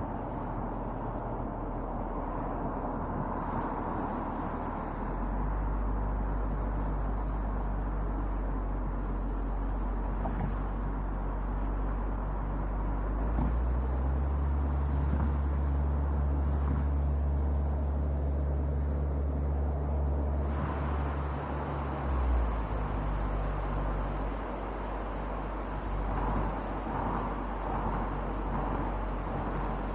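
Car driving on an expressway, heard from a roof-mounted camera: steady road and wind noise with a low hum that steps up around five seconds and again around fourteen seconds, then drops away about twenty-two seconds in.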